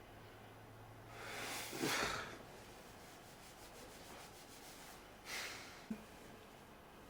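Soft rubbing or rustling noises: a longer swell that peaks about two seconds in and a shorter one about three seconds later, followed by a small click, over a faint low hum.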